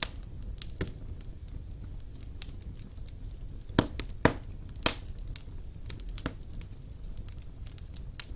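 Wood fire burning in a fireplace: firewood crackling with scattered small snaps over a low steady rumble, and three loud pops close together about four to five seconds in.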